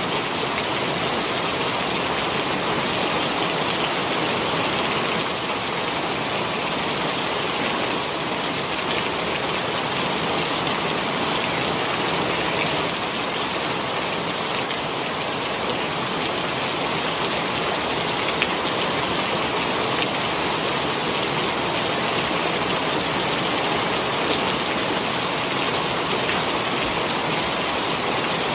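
Heavy rain falling steadily, a dense even hiss with scattered close drops ticking.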